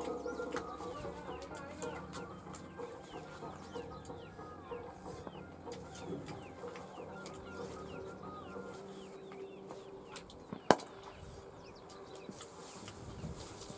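Birds chirping over and over in short, quickly falling notes, over a low steady hum. A single sharp crack sounds about eleven seconds in.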